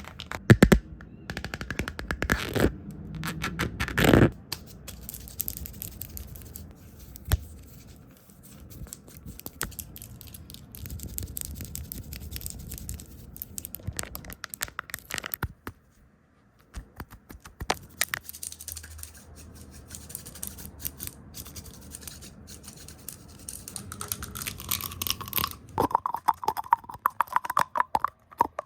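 Close-miked ASMR trigger sounds: fast, erratic tapping, brushing and hand movements over the camera lens. The result is a dense, irregular run of clicks and scratchy rustles, with louder swipes about four seconds in and a burst of rapid strokes near the end.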